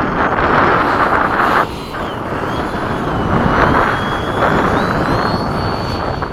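Whine of an RC F-15 model jet's electric ducted fans, its pitch dropping about two seconds in and then stepping back up as the throttle changes. Heavy wind buffeting on the microphone runs loud underneath, dropping off briefly near the two-second mark.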